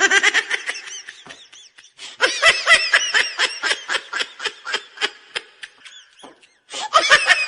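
A person laughing hard in quick, high-pitched bursts, about four a second, breaking off briefly near the end before laughing again.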